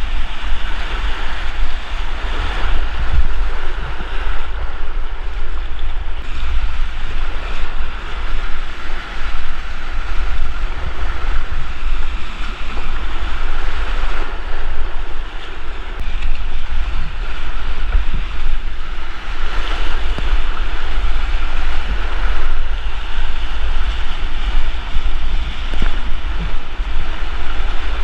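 Whitewater creek rushing steadily, with gusty wind buffeting on the microphone.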